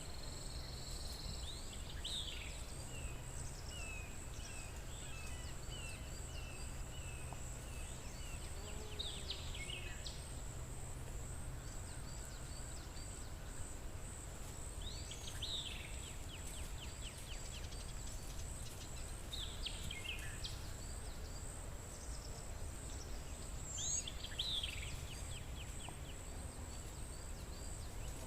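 Forest ambience: songbirds singing a short phrase every few seconds, a falling note followed by a quick run of notes, over a steady high-pitched insect trill, with a low rumble beneath.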